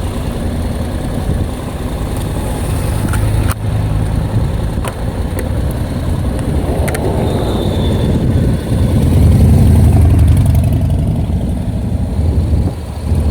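Motorcycle engine running, its level rising and easing, with a few sharp clicks.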